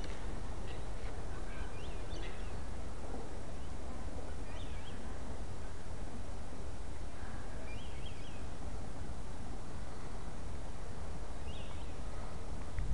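Small birds giving short, high chirps every few seconds over a steady low outdoor rumble and hiss.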